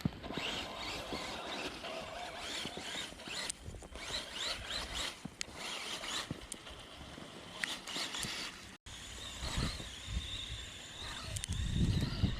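A small RC truck's 390 electric motor whining, rising and falling in pitch, with the noise of its gears and tyres as it is driven through snow. The sound cuts out abruptly just under nine seconds in, and a heavy low rumble comes near the end.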